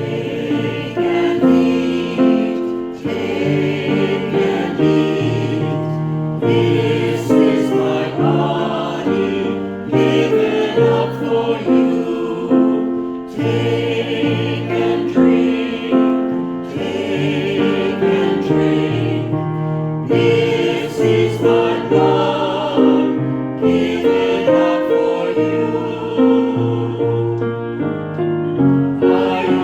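A choir singing a hymn with piano accompaniment, in long held phrases.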